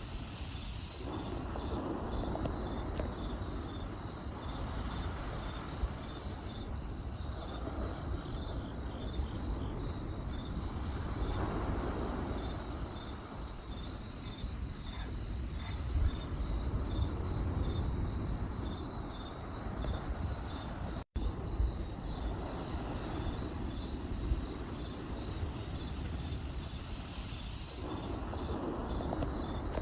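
Crickets chirping in a steady pulsing trill over a continuous low rushing background that swells and eases every few seconds, with a few faint pops from a campfire. Everything cuts out for a split second about two-thirds of the way through.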